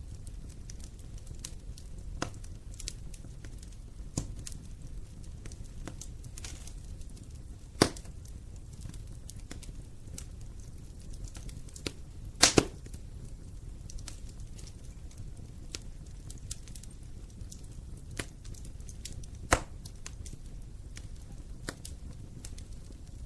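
Wood fire burning in a fireplace: a low steady rumble of flames under scattered crackles and sharp pops, the loudest a quick double pop about halfway through.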